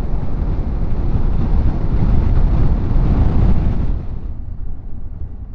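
Wind rushing over the microphone with the low rumble of a Yamaha Ténéré 700's parallel-twin engine and tyres at road speed. About four seconds in the wind noise drops off sharply and the sound gets quieter as the motorcycle slows.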